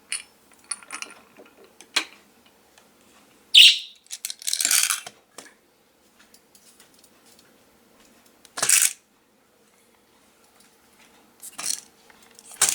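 A budgie pecking and knocking at a small plastic toy: scattered clicks and short clattering rattles, a few seconds apart, with a brief high chirp-like sound a few seconds in.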